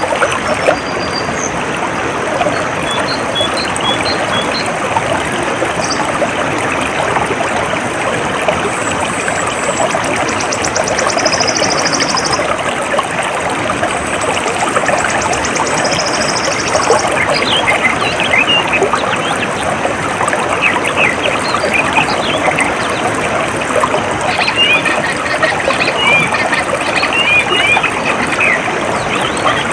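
Small stream of water trickling steadily. Birds chirp in short calls through the second half, and a high, rapidly pulsing trill sounds twice near the middle.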